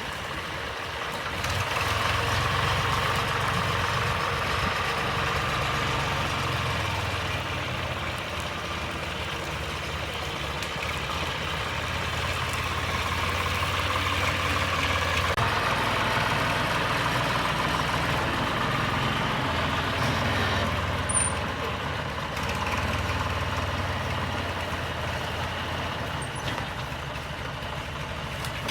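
1988 John Deere 50-hp tractor's engine running continuously, its low note shifting up and down several times as the load changes. A single sharp click comes about twenty seconds in.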